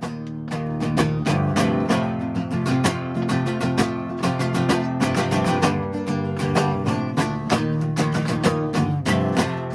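Instrumental stretch of a song with no vocals: a guitar played in rapid, even strokes over sustained chords.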